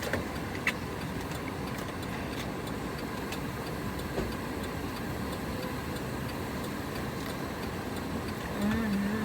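Steady hum of a car's air conditioning running in the cabin with the engine idling, with a few light clicks.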